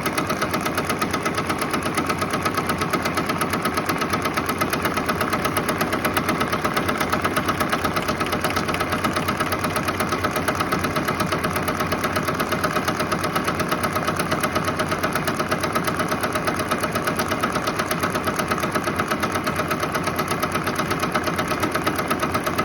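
Embroidery machine stitching at speed, a steady run with a rapid, even needle rhythm.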